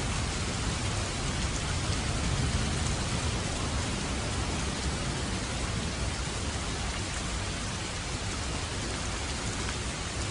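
Steady heavy rain falling, a dense even hiss, with a low rumble that swells and fades over the first few seconds.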